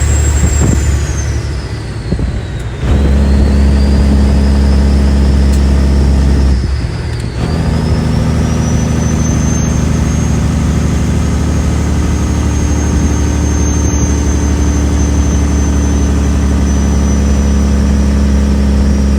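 Kenworth W900's 550 hp Detroit Diesel Series 60 12.7-litre engine pulling a 22-ton load, with a loud turbo spool whistling over the engine. Twice the engine briefly lets off, the whistle falling in pitch, then it pulls again and the whistle rises and holds high and steady.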